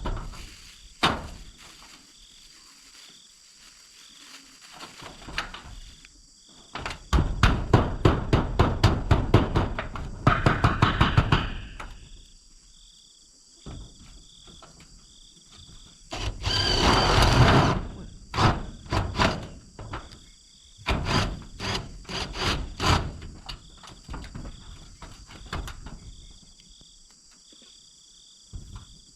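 A fast run of sharp knocks for several seconds, then a short rough scraping burst and scattered single knocks, like hand-tool work. Insects chirp in a steady, repeating pulse throughout.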